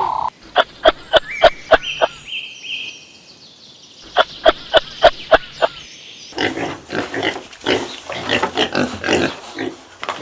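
Pigs grunting: two quick runs of short, sharp grunts, then from about six seconds a denser, overlapping stretch of grunting.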